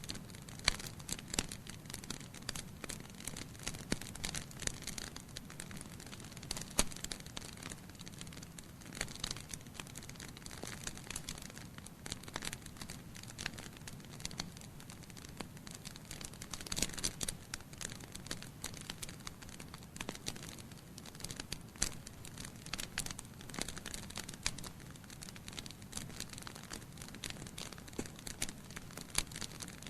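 Wood fire burning in a fireplace: logs crackling with frequent irregular pops and snaps over a low steady rumble of flames.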